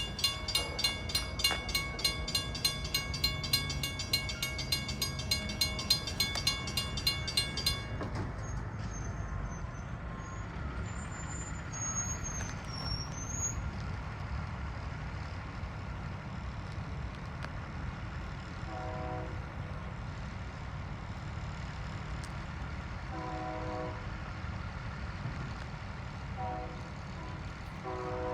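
Railroad crossing bell clanging about twice a second, stopping about eight seconds in, over the low rumble of a diesel freight train. Later the locomotive horn sounds four blasts, the last still going at the end: the grade-crossing warning pattern.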